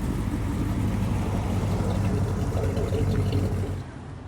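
A car engine idling steadily, close by. It cuts off abruptly near the end.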